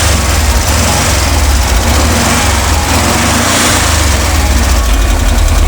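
Volkswagen 1600 air-cooled flat-four (boxer) engine running, a loud, steady low throb heard close up.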